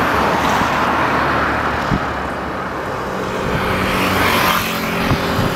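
Cessna 172N Skyhawk's four-cylinder Lycoming engine and propeller running, a loud continuous drone that eases in the middle and swells again, with a steadier engine hum coming in about three and a half seconds in.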